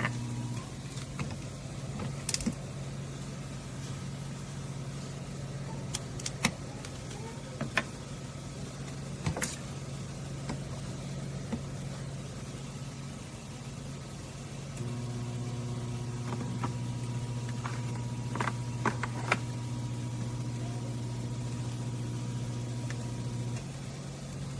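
Dolce Gusto Genio 2 pod coffee machine's pump humming steadily. It cuts out about half a second in and starts again about fifteen seconds in, running for about nine seconds. Several sharp clicks and taps fall in between and during the second run.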